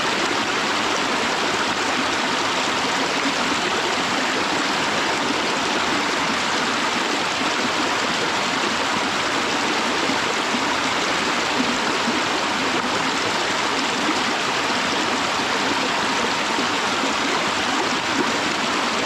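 Waterfall's falling water: a steady, unbroken rush.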